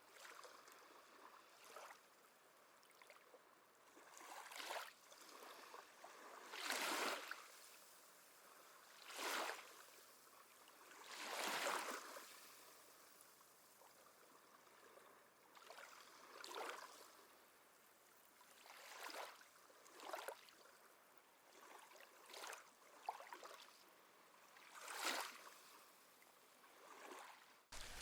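Small sea waves lapping onto a shore, each wash of splashing water swelling up and fading away every two to three seconds.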